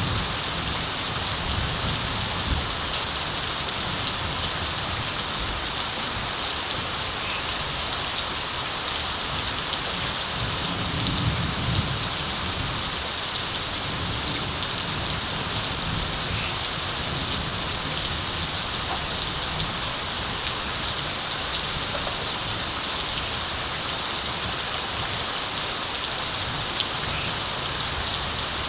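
Steady rain falling, an even patter of drops on surfaces. A soft low rumble of distant thunder swells about ten seconds in.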